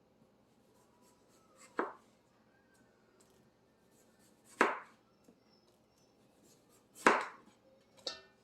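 Kitchen knife chopping through a canary melon, four separate strokes a couple of seconds apart, the second and third the loudest.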